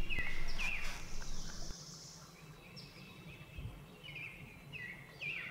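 Birds calling outdoors: short chirping notes repeated every half second to a second. A low hum underneath stops a little under two seconds in.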